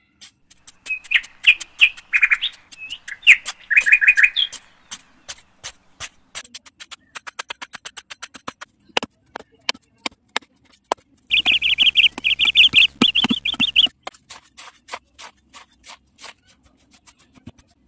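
Small trowel tapping and scraping through clumps of damp sand mix on concrete, a rapid, irregular run of clicks and taps. Birds chirp in bursts near the start and again about two-thirds through.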